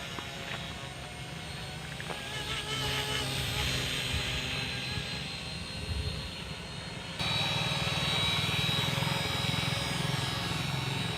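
Model helicopter running, a steady motor-and-rotor hum with several held tones, which jumps abruptly louder about seven seconds in.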